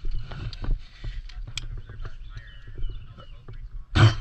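Irregular crackling and rustling of someone moving through dry brush and leaves, over a steady low rumble of wind on the microphone. A loud brush-rustle or thump comes near the end.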